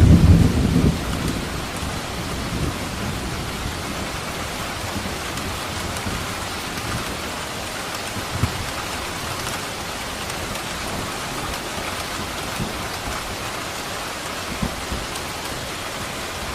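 Steady rain falling on a surface, with the low rumble of thunder dying away in the first second.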